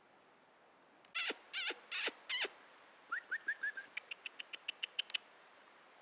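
A bird calling: about a second in, four loud harsh calls in quick succession, then a few short rising notes and a fast run of about ten sharp ticking notes.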